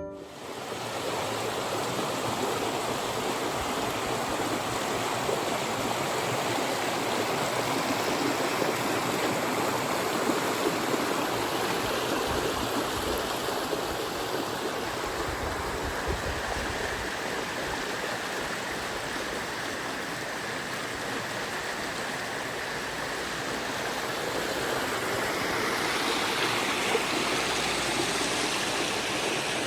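Steady rushing of a mountain stream's water, a continuous even wash that turns a little hissier near the end.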